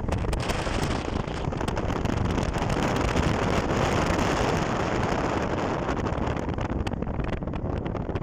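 Wind buffeting the microphone: a steady, loud rumble with crackle.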